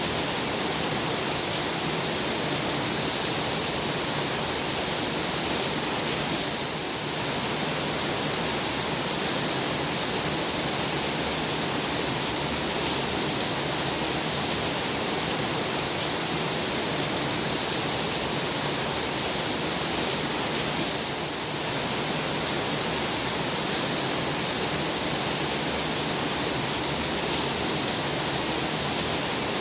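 Heavy rain pouring steadily, a dense even hiss, briefly easing about seven seconds in and again about twenty-one seconds in.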